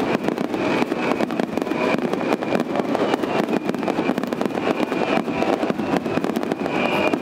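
Fireworks finale: many aerial shells bursting in rapid succession, a dense unbroken barrage of bangs and crackle.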